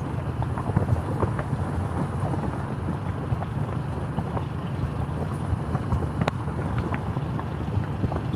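Wind buffeting the microphone of a camera on a moving bike: a steady low rumble with scattered small knocks and rattles.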